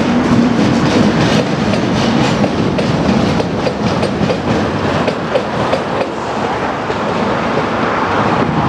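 Rail vehicles rolling past on the track, their wheels clicking rapidly and irregularly over rail joints and points over a steady rumble.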